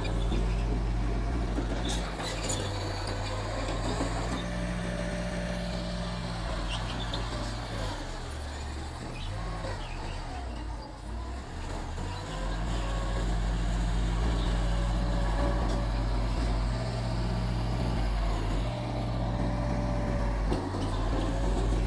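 Bulldozer's diesel engine running steadily while working, getting louder about halfway through, with a thin whine that comes and goes above the engine.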